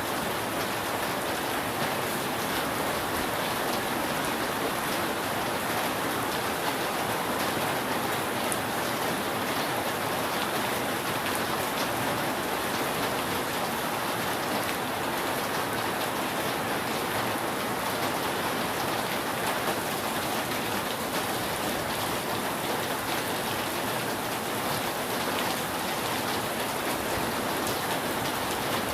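Steady heavy rain falling on a roof: a dense, even hiss with faint separate drop ticks scattered through it.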